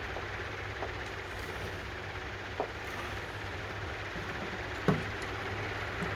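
Steady low hum and background noise, with a few light clicks and taps of small parts being handled during carburetor disassembly; the sharpest knock comes about five seconds in.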